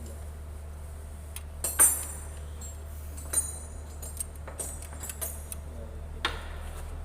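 Metal hand tools (spanners and sockets) clinking and clattering against each other and the engine in scattered sharp strikes, the loudest about two seconds in, over a steady low hum.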